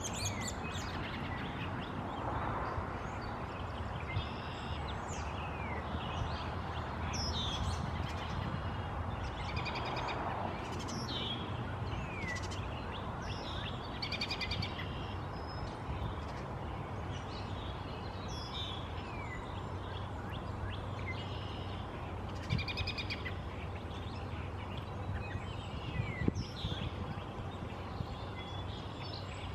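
Wild birds calling on and off with short, falling high chirps and a few buzzy notes, over a steady background hiss. A single brief low knock comes near the end.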